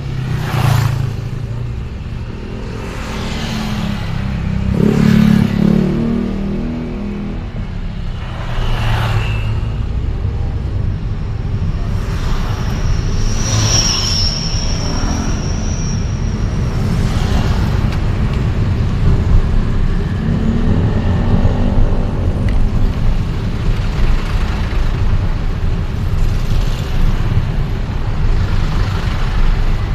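City road traffic heard while travelling through the streets: steady engine and road rumble, with several vehicles whooshing past. A brief high-pitched whine comes about 13 seconds in.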